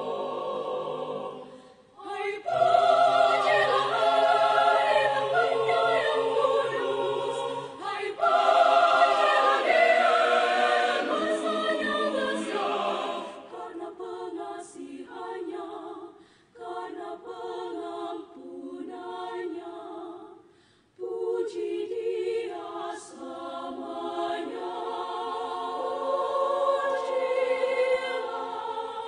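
A choir singing in several voices, the phrases broken by short pauses about two seconds in and again around twenty seconds in.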